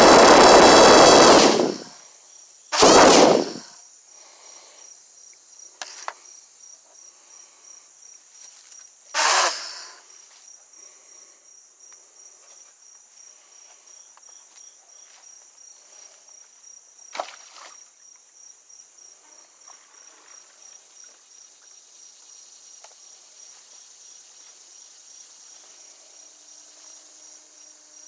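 Crickets chirping steadily in a quiet background. A loud noise stops about a second and a half in, and brief loud bursts break in about 3, 9 and 17 seconds in.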